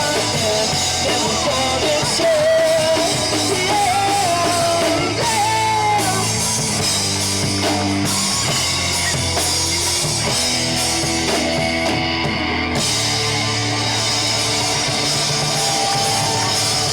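Rock band playing live: guitars, bass and drum kit. In the first few seconds a wavering melodic line rides over the held chords.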